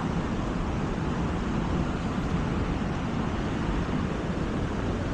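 Steady, noisy rush of the Athirappilly Waterfalls' large cascade of falling water heard from close by, an even, unbroken wash of sound.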